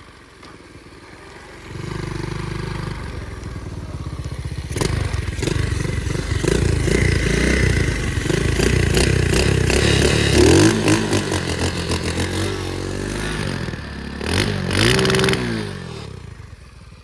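Flywing pit bike's small single-cylinder engine revved hard again and again, its pitch rising and falling, with clattering, as the bike struggles to get free on the ice. The engine picks up about two seconds in and drops back near the end.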